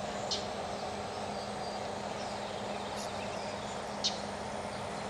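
Steady outdoor background noise, broken by three short, high chirps from a small bird: about a third of a second in, near three seconds and just after four seconds.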